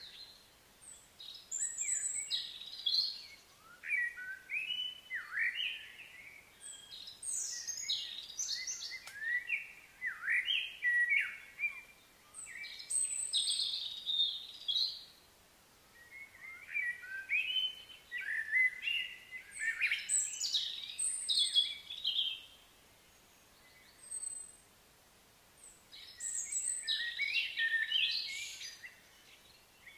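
Songbird singing outdoors: runs of quick, high chirps and whistled notes that slide up and down, in phrases of a few seconds separated by short pauses.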